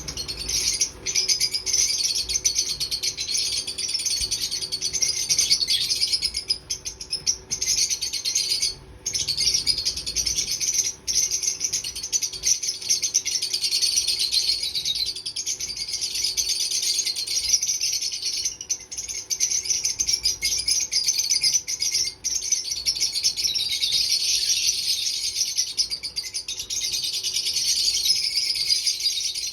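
Fischer's lovebirds chattering: a dense, continuous stream of shrill, high-pitched chirps with only a couple of brief breaks.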